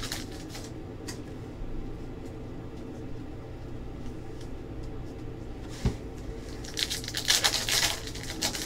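Trading-card packs and wrappers being handled: a single thump about six seconds in, then a second or so of rustling and crinkling near the end, over a steady low room hum.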